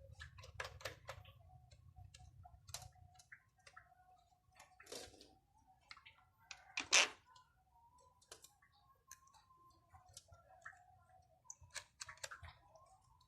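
Irregular light clicks and knocks of hand tools and small metal parts being handled while a water pump motor is worked on, with one sharper knock about seven seconds in.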